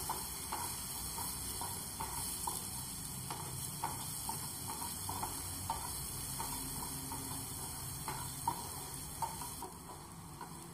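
Ground green masala paste gently sizzling in oil in a non-stick frying pan over a low flame, with a spatula scraping and stirring it in short strokes about two or three times a second. The sizzle thins out near the end.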